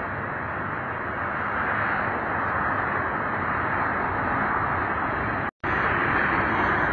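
Freight train of tank cars rolling past slowly, giving a steady noise of wheels on rail. The noise cuts out completely for an instant about five and a half seconds in. The uploader blames noise like this on poorly maintained wheel assemblies.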